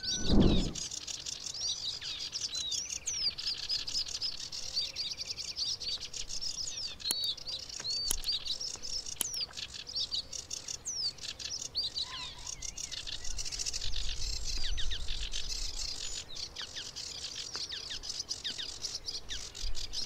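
Sedge warbler singing: a fast, continuous chattering run of varied high chirps, trills and whistles. A brief low sound right at the start.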